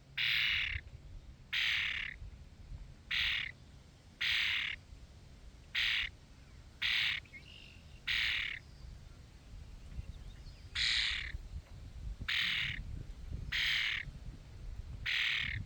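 A bird giving harsh, raspy squawking calls over and over, about eleven in a row, each short and spaced a second or so apart, with a longer pause midway.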